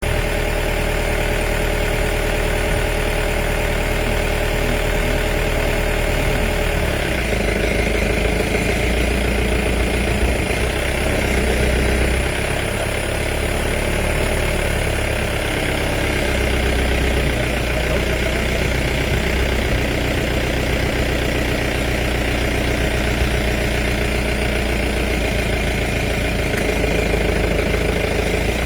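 A vehicle engine idling steadily with a low hum, its note shifting slightly about seven seconds in.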